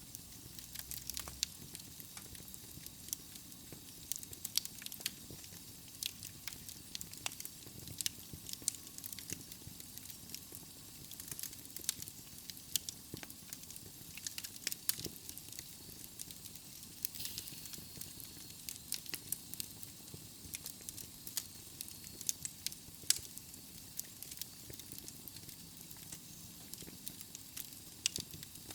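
Wood fire of burning logs in a fireplace, crackling and popping irregularly over a soft steady hiss of flame.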